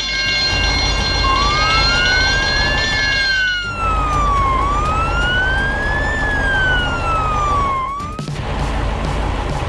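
Police car siren wailing, rising and falling slowly about two and a half times over a low engine rumble. It cuts off about eight seconds in, with a musical chord held under its first part.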